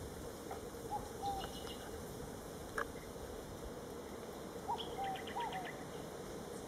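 Birds calling: short whistled notes about a second in and again near five seconds, each time with a quick high trill of about six notes alongside. One sharp click near the middle, over a faint steady background hum.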